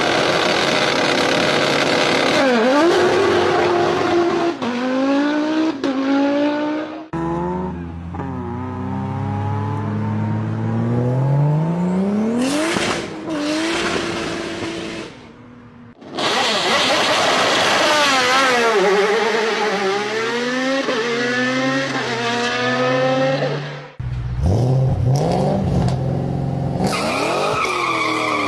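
Several V12 car engines heard one after another, revving and accelerating hard, the pitch climbing and then dropping back again and again as through gear changes. The sound switches abruptly to a different engine several times.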